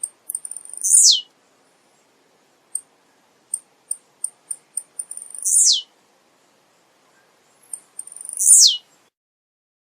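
Male blue-black grassquit (tiziu) singing its short buzzy song three times, each a sharp high note sweeping steeply down in pitch, with quick high ticks leading into and between the songs.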